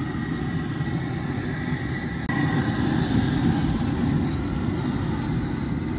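Crawfish washer running: a steady churning rumble of water and machinery as a sack of crawfish is rinsed, growing a little louder about two seconds in.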